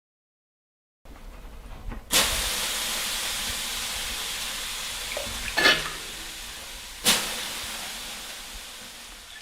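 A steady hiss that comes in abruptly after a moment of silence, grows louder about two seconds in, and then slowly fades, with two short sharp clicks in the second half.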